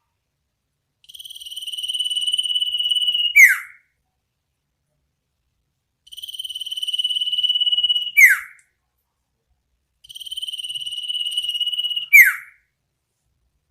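Iora (sirtu) calling three times. Each call is a steady, buzzy trill that grows louder for about two seconds and ends in a loud, sharply falling whistle: the 'ngetir' trill followed by the 'nyipow' note.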